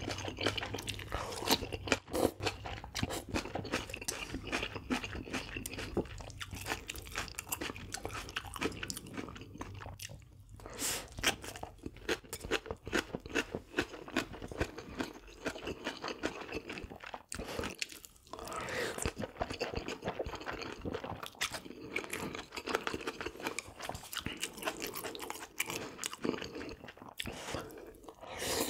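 A person chewing and crunching food close to the microphone, with dense, irregular crisp crunches throughout. There are brief pauses about ten seconds in and about eighteen seconds in.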